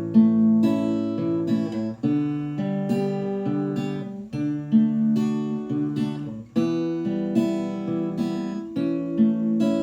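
Acoustic guitar strumming and picking chords, a new chord struck every half second to second.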